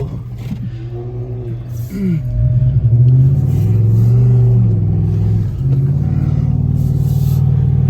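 Car engine revving as the car drifts on snow: the pitch climbs and the level rises about two seconds in, then the engine holds loud and steady at high revs.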